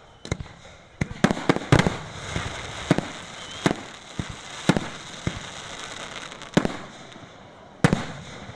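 Aerial fireworks bursting: a rapid, irregular string of sharp bangs, thickest about a second in, with a crackling hiss between them, and a last loud bang near the end.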